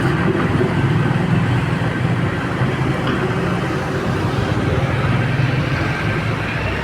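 A heavy engine running steadily, a continuous low rumble with no breaks.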